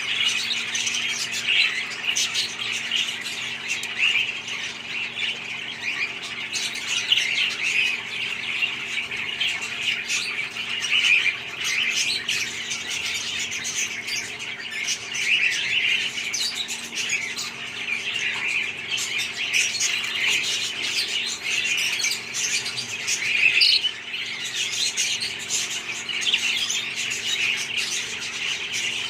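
A flock of budgerigars chattering and calling continuously, many birds at once, with a faint steady hum underneath.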